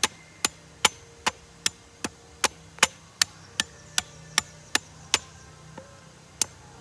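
Cutlass striking a wooden slingshot fork in quick, even chops, about two and a half a second, pausing briefly about five seconds in, as the fork is shaved into shape.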